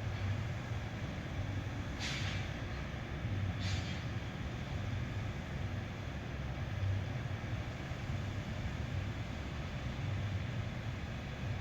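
Steady low vehicle rumble, with two short hisses about two and three and a half seconds in.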